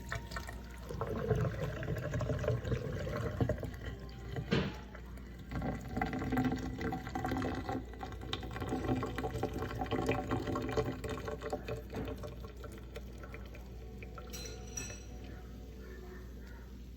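Water pouring and filling a container for about ten seconds, with a sharp click partway through, then a short high-pitched tone near the end.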